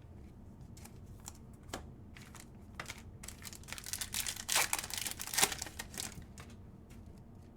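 A foil-wrapped Select football card pack being crinkled and torn open, with scattered crisp clicks and a dense crackle through the middle.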